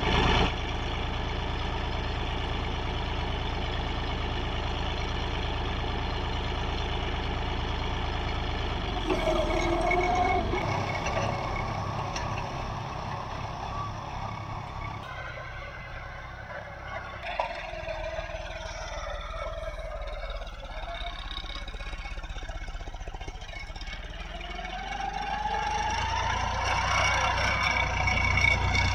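John Deere four-wheel-drive tractor's engine running: steady for the first several seconds, quieter in the middle, then revving up with a rising whine near the end.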